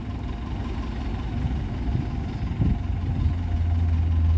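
A vehicle engine running and growing louder, settling into a steady low hum about three and a half seconds in.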